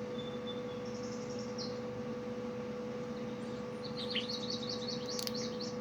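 Small birds chirping from a cat-entertainment video played on the computer: a few short high calls in the first second and a half, then a quick run of rapid chirps about four seconds in, over a steady hum.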